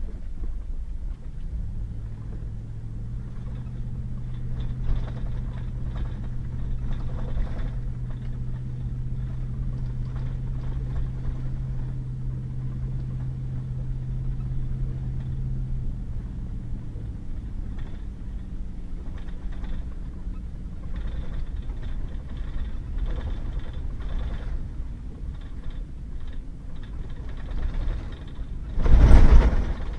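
Pickup truck driving on a muddy back road: a steady low road and tyre rumble, with an engine drone that holds for about fifteen seconds and then fades away. A loud thump near the end.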